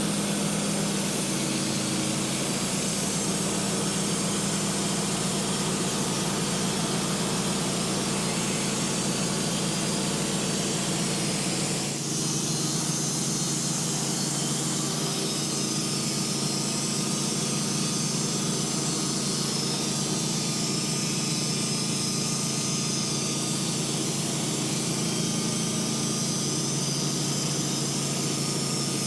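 Sawmill running steadily with a constant engine hum and a hissy edge, as the blade runs through a black walnut log; the sound shifts slightly about twelve seconds in.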